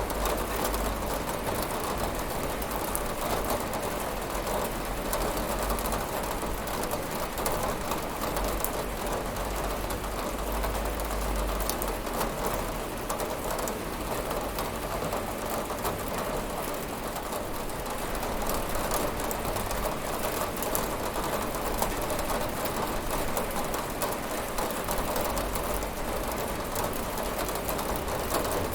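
Steady rain with fine patter of drops on a window, a dense even hiss with a low rumble underneath.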